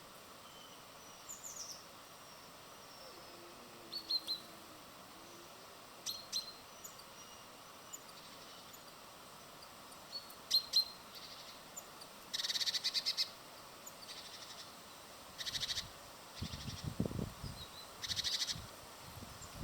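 Small birds at a feeder calling: scattered short high chirps, then several bursts of rapidly repeated notes in the second half. Some low dull sounds come near the end.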